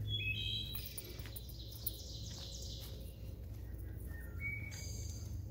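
Songbird singing: clear whistled notes stepping down in pitch at the start, with another short phrase near the end.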